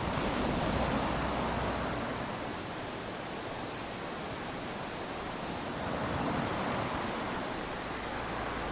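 Small waves washing up onto a sandy beach: a steady hiss of surf that swells twice, about six seconds apart.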